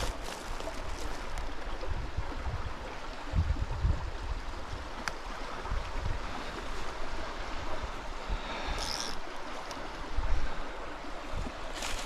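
Steady rushing of a small mountain stream's water flowing over rocks, with a few low thumps about a third of the way in and again near the end.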